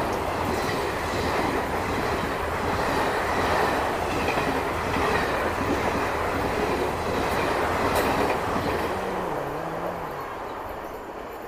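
The Yuva Express passing on the track: a steady noise of its coaches running over the rails, dying away near the end.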